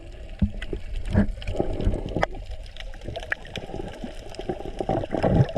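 Water sloshing and splashing, with irregular small knocks throughout.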